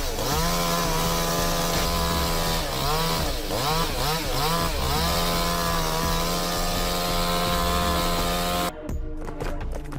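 Chainsaw running at high revs, its pitch dipping and recovering several times around three to five seconds in. It stops abruptly near the end, leaving quieter scattered knocks.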